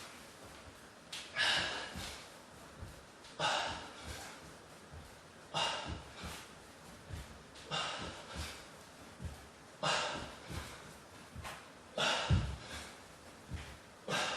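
A man breathing hard while doing burpees, with a sharp, noisy exhale about every two seconds. Short low thumps from the body landing on the floor come between the exhales.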